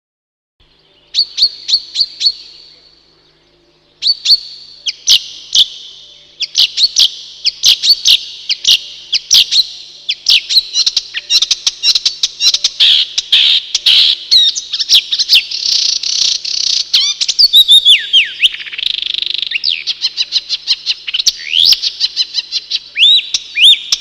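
A songbird singing a long, fast, varied song of high chirps and trills, with a short pause near the start.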